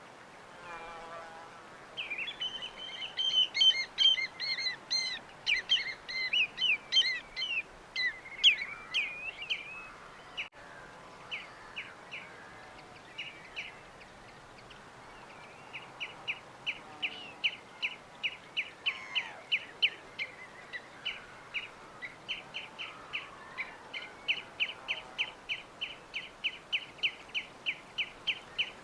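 Songbirds singing: a burst of varied, overlapping song about two seconds in, then after a pause one bird repeating a short chirp two or three times a second, over a steady background hiss.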